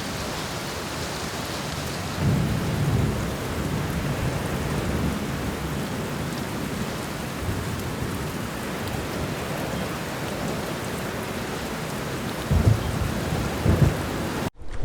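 Steady heavy rain with low rolls of distant thunder, one about two seconds in and more near the end. Just before the end the sound cuts out abruptly for a moment.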